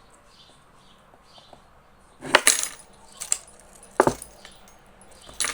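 Four sharp clinks and clatters spread over about three seconds, the first a quick double. Faint, repeated budgerigar chirping runs underneath.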